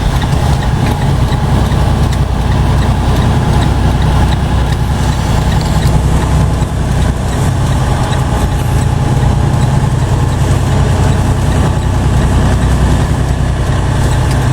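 Heavy truck's diesel engine running steadily, heard from inside the cab as a constant low rumble with road noise over it.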